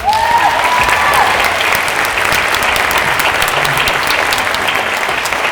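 Audience applauding steadily, a dense patter of many hands clapping, with one voice giving a short held cheer in the first second.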